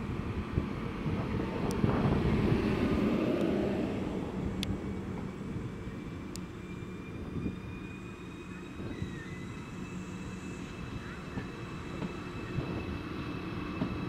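ICE 4 high-speed electric train pulling away from the platform, its wheels rumbling past. The rumble is loudest in the first few seconds. From about five seconds in, a thin electric whine from the traction equipment slowly rises in pitch as the train gathers speed.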